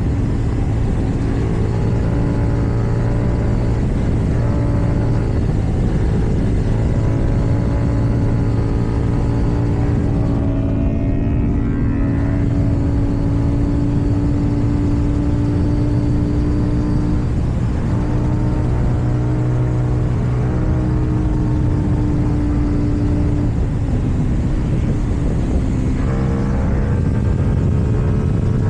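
KTM Duke 790 parallel-twin engine through an Akrapovic exhaust, running at steady cruising revs under wind noise. About ten seconds in the revs drop briefly and then climb again, and near the end they climb once more.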